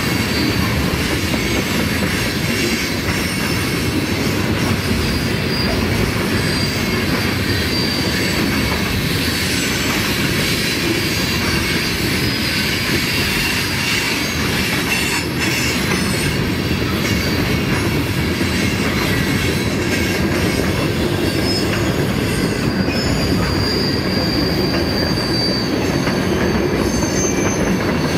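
Freight train cars, mostly tank cars, rolling steadily past: a continuous loud rumble of steel wheels on the rails, with high wheel squeal coming and going.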